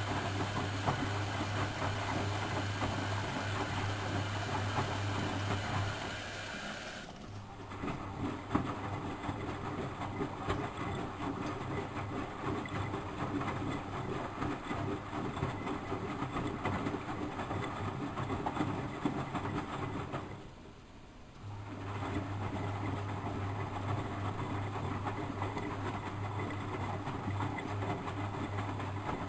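Miele Professional WS 5105-C washing machine running a wash cycle, the drum motor turning with a steady low hum. The motor stops briefly twice, about six seconds in and again about twenty seconds in, as the drum pauses between turns.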